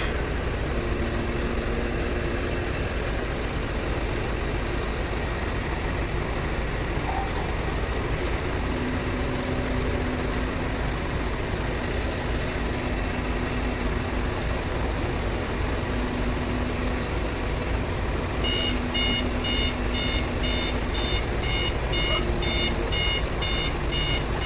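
Truck-mounted crane's diesel engine running steadily, with a faint hum that comes and goes. About three quarters of the way through, an electronic warning beeper starts, beeping about twice a second.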